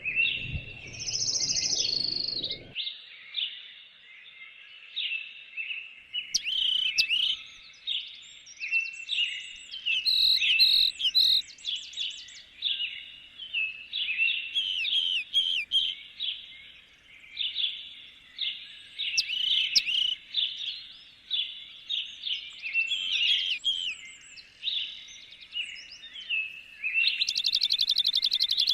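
A chorus of several songbirds singing and chirping over one another, dense quick high notes and warbles throughout. A low rushing noise sits under them for the first two or three seconds, and a fast buzzing trill comes near the end.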